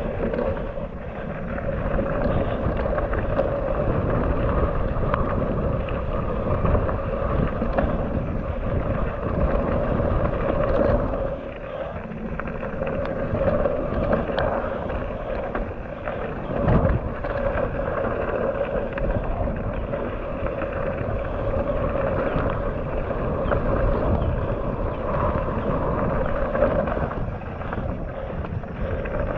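Commencal Meta AM 29 mountain bike ridden down a wet dirt trail: wind buffeting the camera microphone over tyre roar and the frame and chain rattling over bumps, with a sharp knock a little past halfway.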